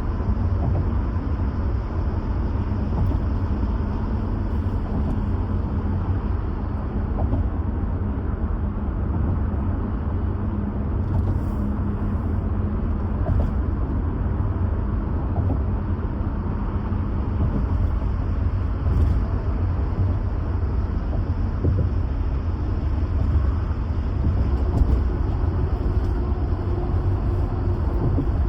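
A car driving at low speed: a steady, deep rumble of engine and road noise.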